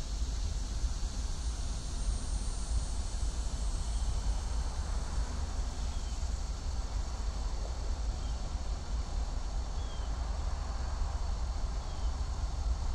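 Low, steady rumble of an approaching freight train's diesel locomotives, heard from a distance, with insects droning and a bird's short high chirp repeating about every two seconds.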